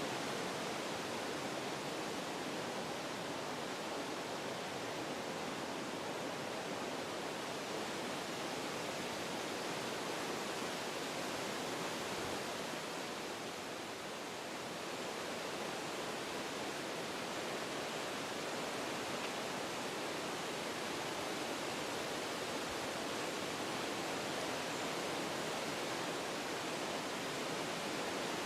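Wind blowing through forest trees: a steady rushing that eases slightly about halfway through, then picks back up.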